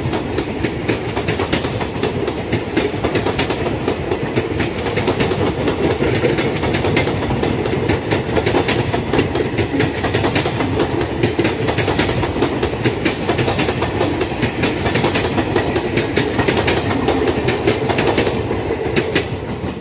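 Passenger coaches of an Indian Railways express train rolling past close by, their wheels over the rail joints giving a fast, steady clickety-clack over a continuous rumble. The clatter begins to fall away at the very end as the last coach passes.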